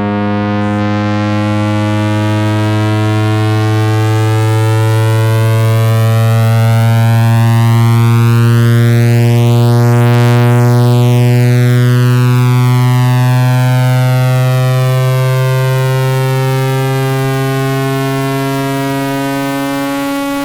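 Synthesized electronic tone: a steady low buzzing hum near 110 Hz with a stack of overtones, overlaid by many criss-crossing rising and falling pitch sweeps. The loudness swells slowly toward the middle and eases off again.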